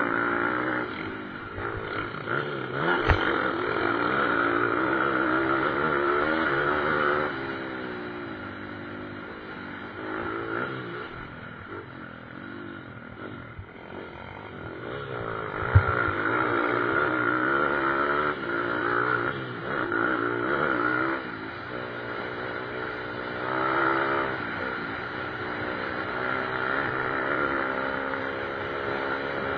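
Several pit bike engines revving up and down through the gears as the bikes race around the motocross track, their pitch rising and falling over and over and growing louder as they pass, twice. Two sharp knocks cut in, about three seconds in and about halfway through.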